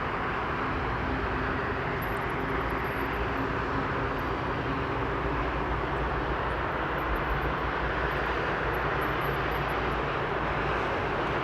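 Passenger jet airliner on approach to land, its engines and airflow making a steady rushing noise, with a faint low hum that fades out about halfway through.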